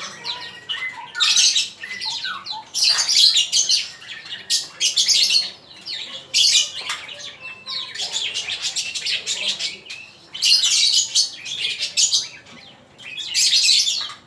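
Male murai songbird singing: loud bursts of rapid, harsh, chattering high phrases, each half a second to a second and a half long, with short pauses between them.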